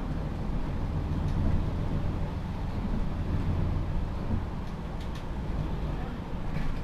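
MAN Lions City G articulated city bus's diesel engine running with a steady low drone that swells from about a second in and eases after about four seconds, with a few faint clicks.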